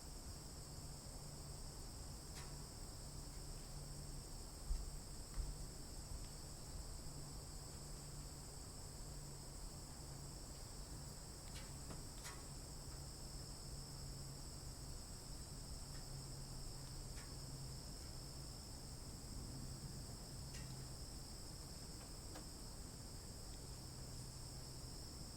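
Steady, high-pitched chorus of crickets trilling without a break. Two soft low thumps come about five seconds in.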